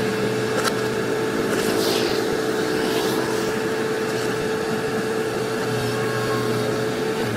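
Heavy-machine diesel engine running steadily at a constant speed.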